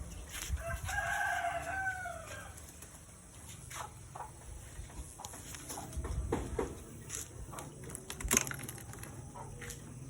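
A rooster crows once, one arching call of about two seconds near the start, over a low steady hum, followed by scattered faint clicks and knocks.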